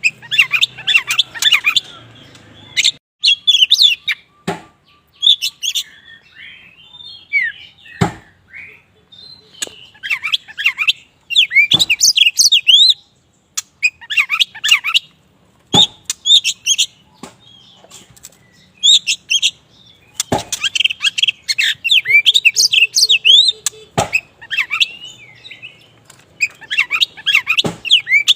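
Black oriental magpie-robin (kacer wulung) singing hard in bursts of rapid, varied chirps and whistles with short pauses between phrases. Sharp clicks cut in about every four seconds.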